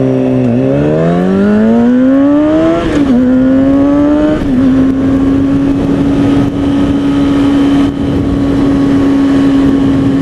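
2003 Kawasaki ZX-6R 636 inline-four sport bike engine accelerating, its pitch rising through the gears with upshifts about three and four and a half seconds in. It then holds a steady cruise, with wind rush over it.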